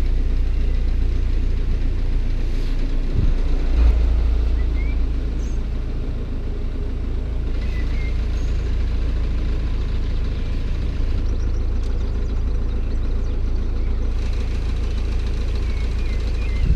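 Narrowboat engine running steadily at cruising speed, a low, even rumble.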